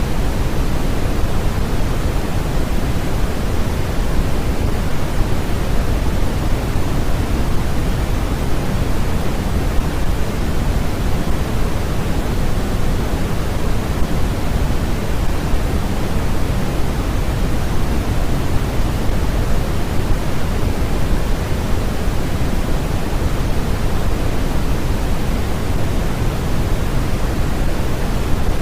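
Steady generated noise, the kind sold as white noise for sleep and focus. It is heavier in the low end than high, a deep even hiss that never changes.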